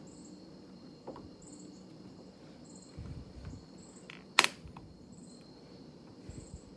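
One sharp plastic snap about four and a half seconds in, typical of a clip on the Saab 95's upper door trim strip popping loose under a pry tool, with fainter handling knocks around it. Crickets chirp steadily, about once a second, throughout.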